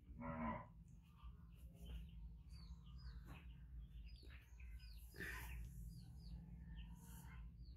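Faint chirping of small birds, many short high chirps a second, over a low steady hum. Just after the start comes a brief voice-like sound, the loudest moment.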